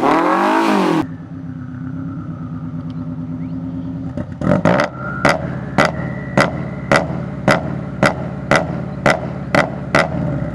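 2005 Subaru Impreza WRX STI's turbocharged 2.5-litre flat-four revving once and dropping back to idle, then held on a low-set two-step launch limiter, banging off the limiter through the new exhaust about twice a second.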